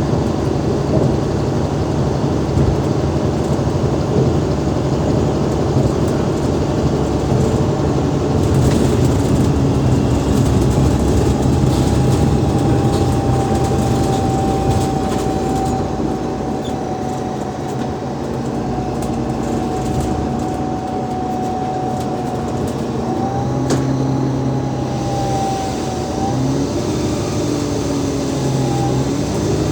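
Interior running sound of an Alexander Dennis Enviro500 MMC double-decker bus, its Cummins ISL 8.9-litre diesel and ZF Ecolife automatic gearbox under way. A thin steady whine comes in about a third of the way through and holds until near the end. Over the last few seconds the engine note rises and falls.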